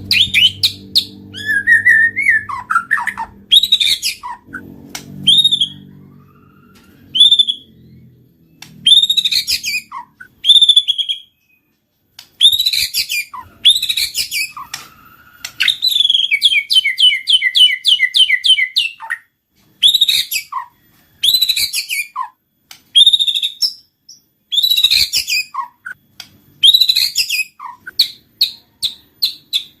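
White-rumped shama (murai batu) singing: a varied run of clear whistles, sharp chirps and quick slurred notes, with a rapid string of repeated notes about 16 seconds in.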